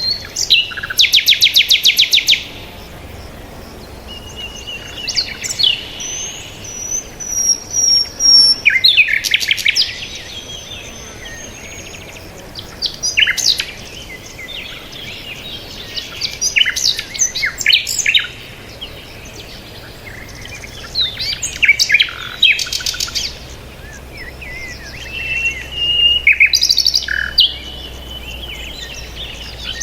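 Birds chirping and singing in short phrases every few seconds, with a fast trill near the start and a thin high whistle a few seconds in.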